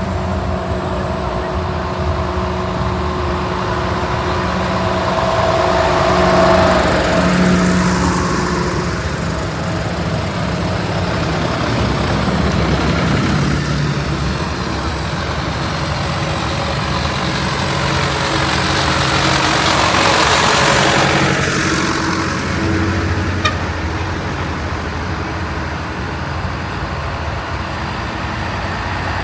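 Tractor engines running steadily as the parade tractors drive past, with two louder pass-bys, one about six seconds in and one about twenty seconds in.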